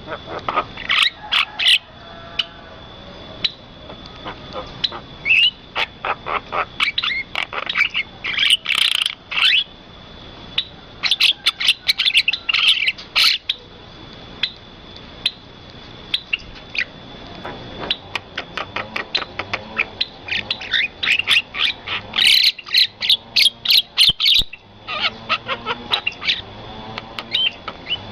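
Birds calling, many short, sharp chirps and whistles in quick runs, over a steady high thin tone.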